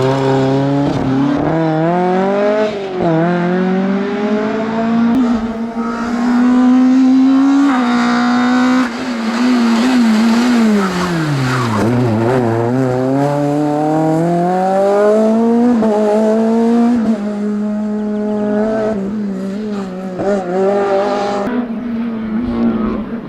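Rally car engine revving hard at full throttle with quick gear changes, then the revs fall away as it slows into a corner about halfway through, and it accelerates out again, rising through the gears.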